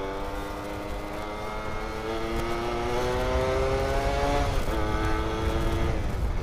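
Yamaha F1ZR's 110 cc two-stroke single-cylinder engine pulling on the move, its pitch rising steadily as it accelerates, then dropping suddenly at a gear change about four and a half seconds in. A low rumble runs under it.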